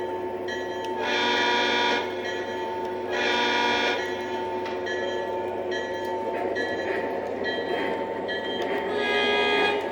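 Lionel DD35 O-scale model diesel locomotive's onboard sound system playing diesel horn blasts: two of about a second each, a second apart, then a third near the end, over a steady engine rumble from the same speaker.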